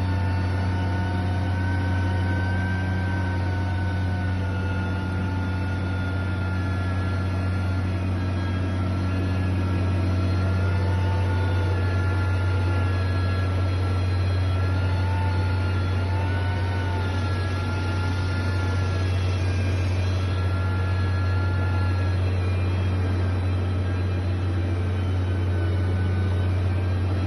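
Heavy construction machine engine running steadily: a constant low drone with thin whining tones above it that waver slightly in pitch.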